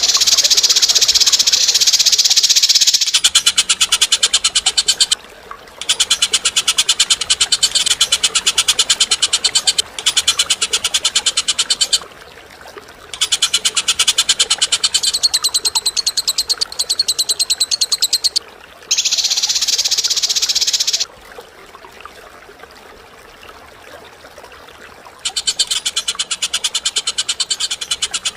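A bird's harsh, very rapid chattering trills in long runs broken by short pauses, with a stretch near the end where it stops for a few seconds; two passages are a continuous, denser buzzing rattle.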